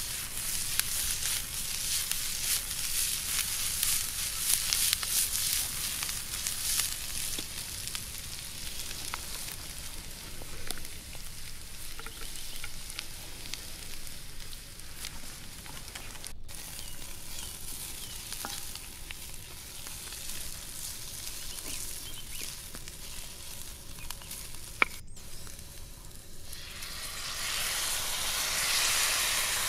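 Beef strips and shredded vegetables sizzling in hot oil in an aluminium pan, a steady crackly frying hiss. Near the end the sizzle swells into a louder hiss as dark soy sauce is poured into the hot pan.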